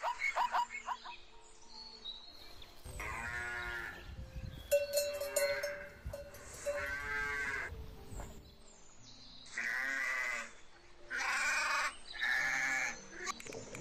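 A zebra's rapid barking call ends in the first second. Cattle then moo in several long, low calls, and sheep bleat three times near the end.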